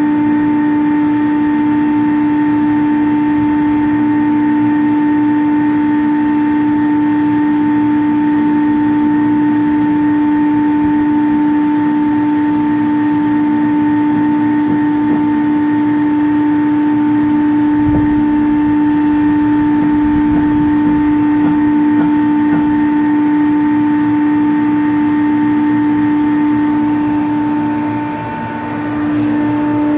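Chiller plant machinery running with a steady hum: one strong low tone with a fainter higher one above it, dipping briefly near the end.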